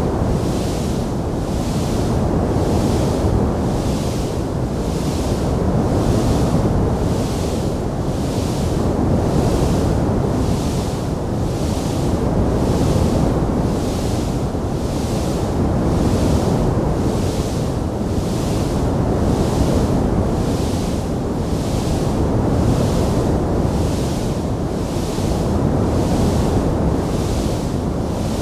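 Wood fire burning in a stone fireplace: a steady rushing, rumbling noise that swells and eases every few seconds, with a faint hiss above it that pulses about once a second.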